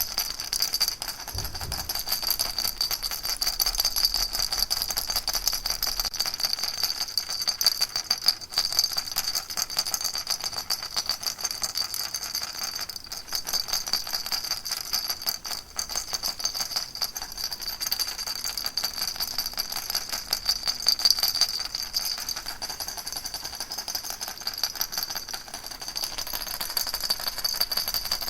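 Baby rattle shaken continuously, a steady dense rattling of many small clicks with no pauses.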